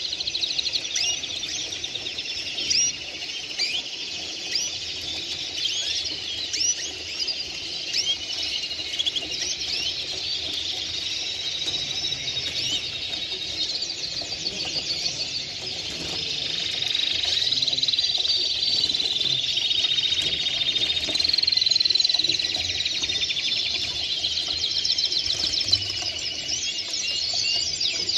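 Many songbirds singing at once: a dense, overlapping chorus of rapid chirps and trills with no pause, swelling somewhat louder a little past the middle.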